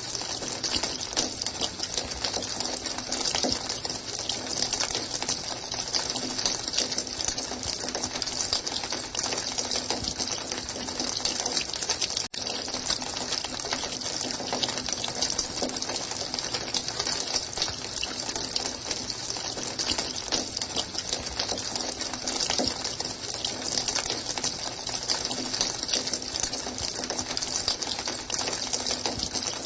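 Running water, a steady splashing rush with no let-up, dropping out for an instant about twelve seconds in.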